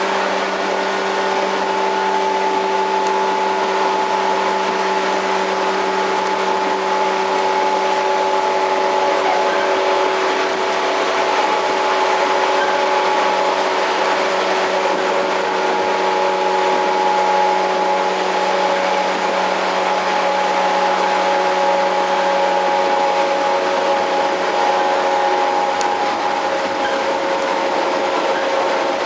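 Interior running sound of a JR 115 series electric multiple unit, heard in motor car MoHa 114-102 while it travels at a steady speed. A continuous run of wheel and rail noise carries several steady held tones from the traction motors and gearing.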